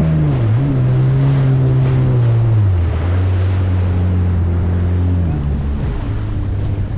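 Jet ski engine running over rushing water and wind, its pitch stepping down three times as the throttle is eased back.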